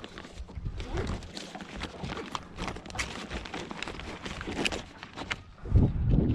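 Handling noise on a small fishing boat: scattered clicks and knocks while a fish scale is fetched and used, over a low wind rumble on the microphone that swells near the end.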